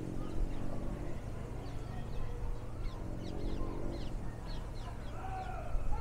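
Small birds chirping: a run of short, high, quick notes, with a few lower whistled notes near the end, over low background noise.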